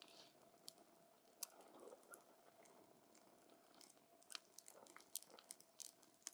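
Wood campfire crackling: scattered sharp pops and snaps at irregular intervals over a faint hiss, with the loudest pops in the second half.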